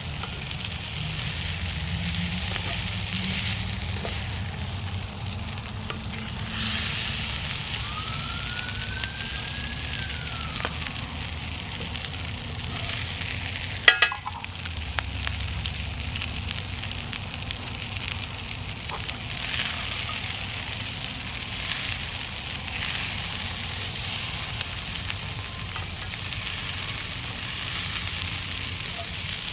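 Vegetables, beans and rice sizzling steadily in a cast iron pan over a campfire, just after the beans were added. About 14 seconds in there is one sharp clank, and a faint tone rises and falls a few seconds before it.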